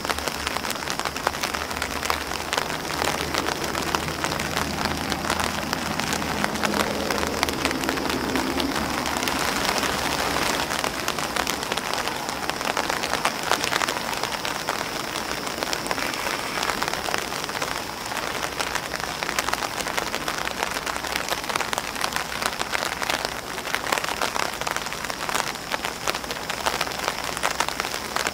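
Rain falling on an umbrella and on grass leaves: a steady, dense patter of many individual drops.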